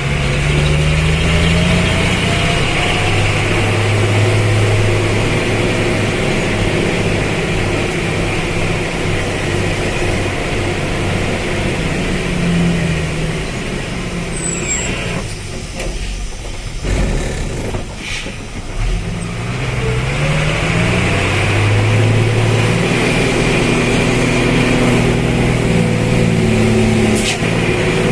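Vehicle engine pulling hard up a steep grade, its pitch rising several times as it revs through the gears, easing off briefly about halfway through.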